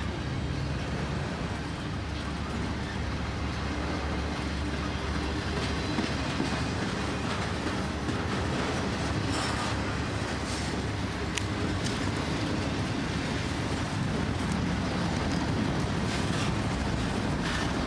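Double-stack intermodal freight train's well cars rolling past: a steady rumble of steel wheels on rail, with a few sharp clacks over rail joints in the second half.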